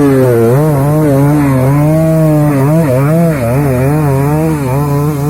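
Trail motorcycle engine revving hard under load, its pitch rising and falling over and over as the throttle is worked on the climb.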